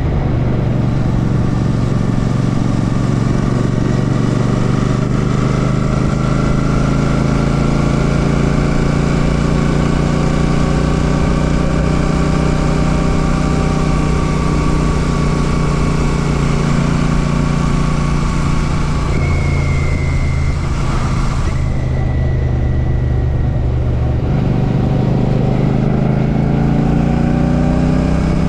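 Royal Enfield Classic 650's parallel-twin engine running on the move, its pitch drifting gently with the throttle. About three-quarters of the way in the note breaks off and drops, then climbs again as the bike accelerates.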